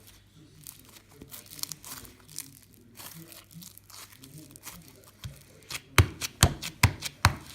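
Slime being kneaded and stretched by hand, making soft crinkly crackles. Near the end come a handful of sharp, loud pops and snaps, about two a second.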